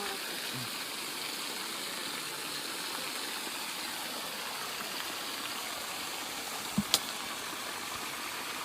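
Steady rush of flowing water, like a stream, with two short sharp clicks a little before seven seconds in.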